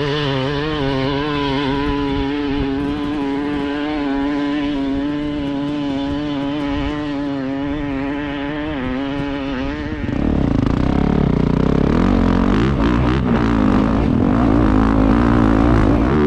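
Dirt bike engine running hard at steady high revs, its pitch wobbling slightly. About ten seconds in it turns louder and rougher, with the revs rising and falling.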